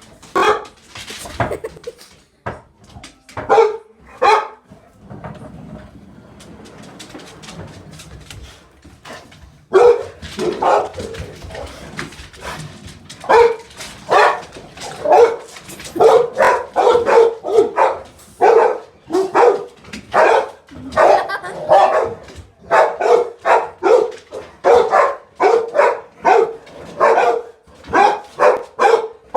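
Dog barking in repeated excited bursts: a few barks, a lull of about five seconds, then fast, continuous barking from about ten seconds in.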